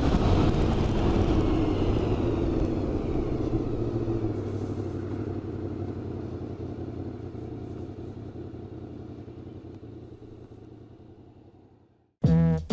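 Honda VFR750 motorcycle's V4 engine running steadily while riding along the road, fading out gradually to silence. Music starts abruptly just before the end.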